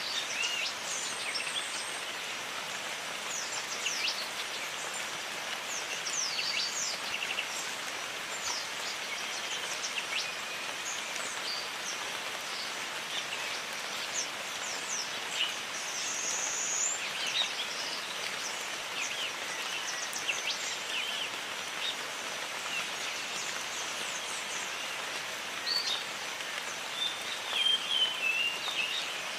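Steady jungle rain falling, with many short bird chirps and calls scattered through it and a louder run of warbling calls near the end.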